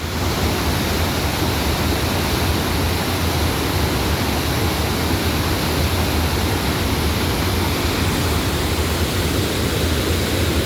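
Waterfall rushing: a steady, loud roar of falling water with a deep low rumble.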